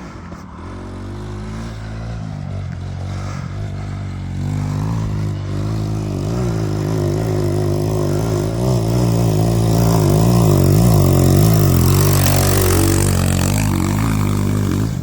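Small motorcycle engine running, its revs rising and falling, growing louder until about ten seconds in, with a spell of scraping, gritty noise a little after that.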